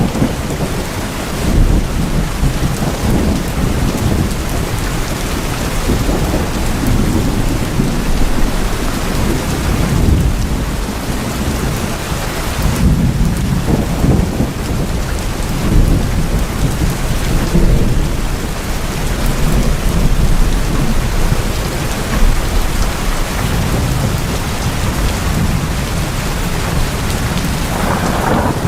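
Heavy rain falling on tin roofs: a dense, steady patter with a deep low rumble that swells and eases every few seconds.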